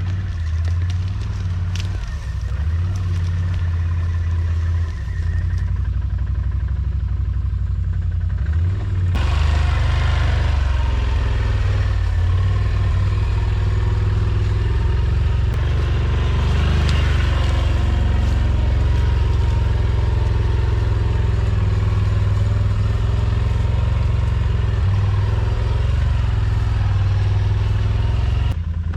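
ATV engine running steadily under load, working harder and louder from about nine seconds in.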